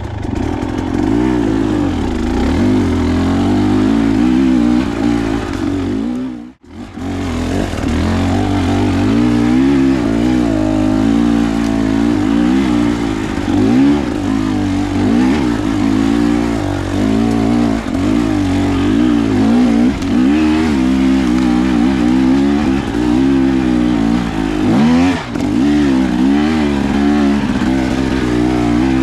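Dirt bike engine running under riding load on trail, its pitch rising and falling steadily with the throttle. About six seconds in, the sound drops out abruptly for a moment.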